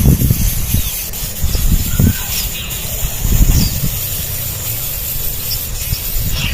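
Low rubbing and bumping handling noise, uneven and loudest near the start and about three and a half seconds in, over a steady high hiss. A few faint, short high cheeps from nestling birds come through.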